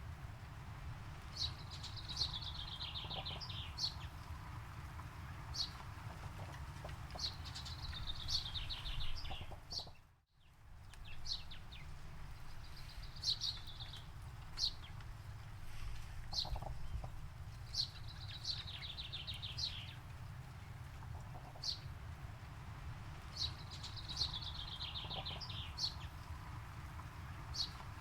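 Songbirds singing: short high chirps and a repeated song phrase that ends in a fast trill falling in pitch, recurring every few seconds, over a steady low rumble. The sound drops out briefly about ten seconds in.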